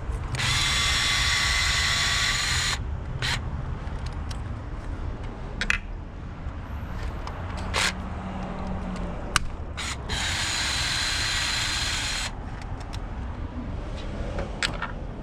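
Power ratchet running in two bursts of about two seconds each, a whining buzz, with scattered clicks and knocks of tools on metal between the bursts.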